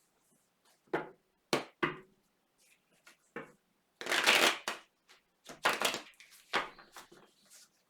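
Tarot cards being shuffled and handled: a string of short papery bursts, the longest and loudest about four seconds in.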